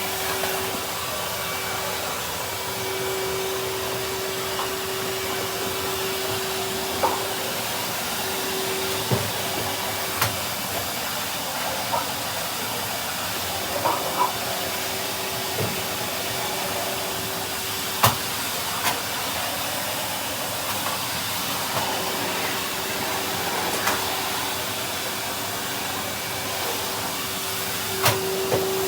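Numatic Henry cylinder vacuum cleaner running steadily, a constant hum with a rushing suction sound, broken by occasional sharp knocks.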